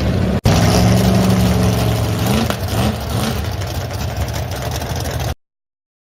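Nissan GT-R's twin-turbo V6 engine running loudly, mostly at a steady pitch, with a few short rises in revs around the middle. The sound breaks off for an instant about half a second in, and cuts off abruptly a little after five seconds.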